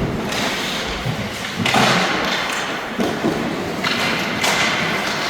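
Sounds of play echoing in a large hall or arena: a low thud about a second in, then several short hissing scrapes over a steady background din.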